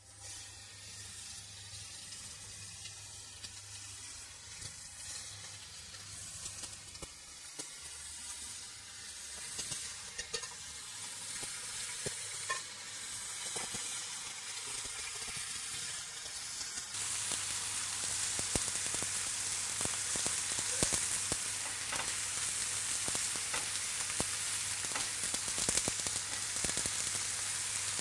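Oil-marinated vegetables sizzling on a hot, dry grill pan: a steady frying hiss with fine crackling. The sizzle jumps louder about two-thirds of the way through.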